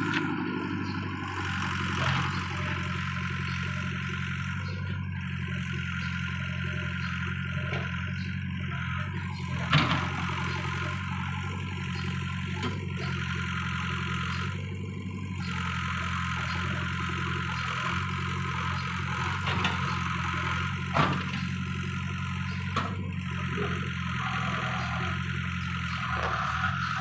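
Heavy diesel engine of earthmoving machinery running steadily at a constant speed, with a few sharp knocks.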